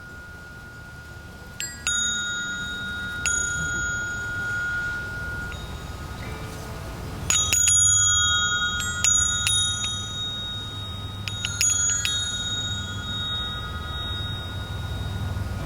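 Small metal chimes struck several times, singly and in quick clusters, each strike ringing on with long, clear, high tones that overlap.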